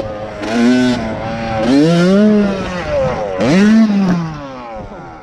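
Dirt bike engine revving in uneven throttle bursts, its pitch climbing and falling back about three times, then getting quieter near the end.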